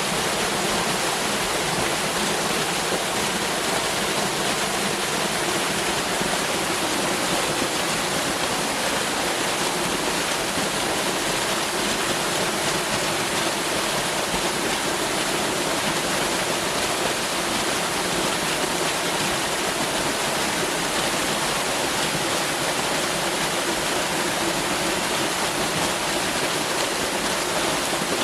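Waterfall pouring steadily: a constant rush of falling water with no breaks or single events.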